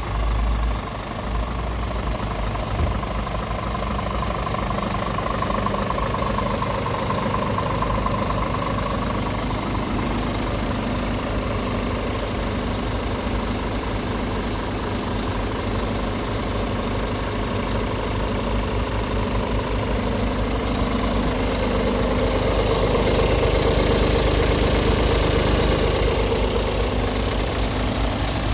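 Scania R450 truck's 13-litre inline-six diesel engine idling steadily, getting a little louder about three-quarters of the way through.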